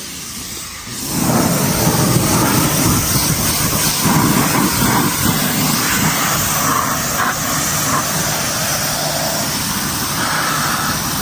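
An engine running steadily at speed with a loud rumble and hiss, starting about a second in.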